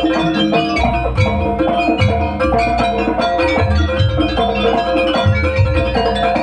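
Live Javanese jaranan gamelan music: metallophones ring a repeating melody over steady drum beats.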